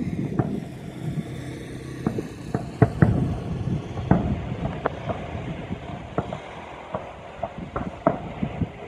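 Aerial fireworks shells bursting at a distance: a dozen or more sharp bangs and pops at irregular intervals over a steady low rumble.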